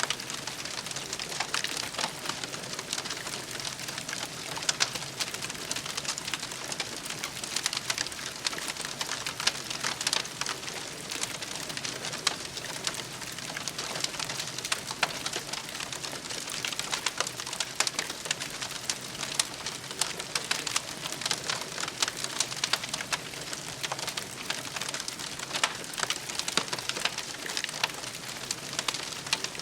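Wood campfire crackling: a steady hiss studded with frequent sharp, irregular pops and snaps.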